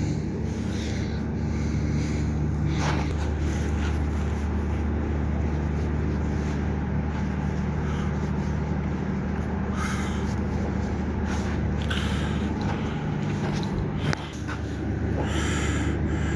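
A steady low machine hum, like a motor or engine running, with a few short scraping or puffing noises over it and a brief drop about fourteen seconds in.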